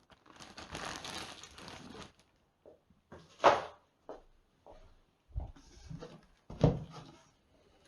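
Plastic-wrapped fireworks packaging rustling and crinkling for about two seconds as it is handled, then a few separate knocks as the packs are moved and put down.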